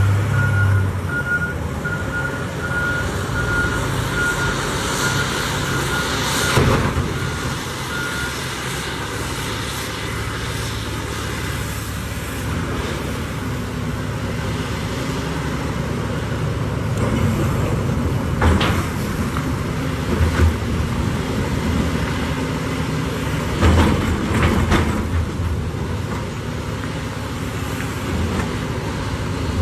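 Heavy diesel engines of a Caterpillar 6015B mining excavator and 777G haul trucks running steadily, with a reversing alarm beeping evenly for the first eight seconds or so. Several heavy knocks stand out, loudest about six, eighteen and twenty-four seconds in.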